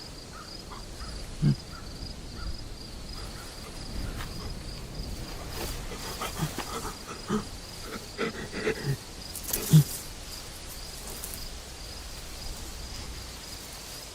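Crickets chirping steadily at about four chirps a second, with a few scattered soft knocks and thuds in the middle, the loudest nearly ten seconds in.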